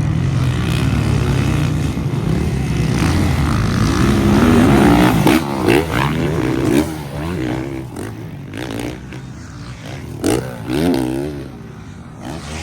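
Motocross bikes racing past, their engines revving up and down through gear changes; loudest about halfway through, with another brief rise near the end before they fade.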